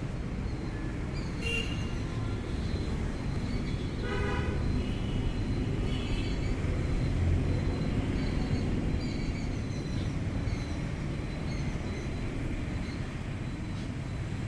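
Babblers (seven sisters) chirping: short, scattered high chirps and a few harsher calls with many overtones, the strongest about four seconds in, over a steady low background rumble.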